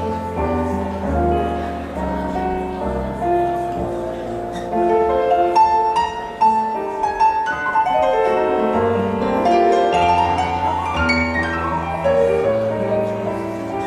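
Piano playing the instrumental introduction to a song, with held bass notes under a melody.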